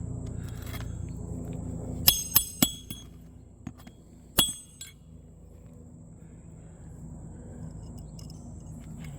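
Roofing hatchet driving roofing nails into asphalt shingles: three quick sharp metallic strikes about two seconds in, then one more about two seconds later, each with a brief ring.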